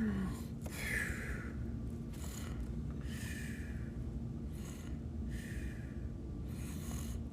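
About six short breathy puffs from a person, spaced a second or so apart, over a steady low hum.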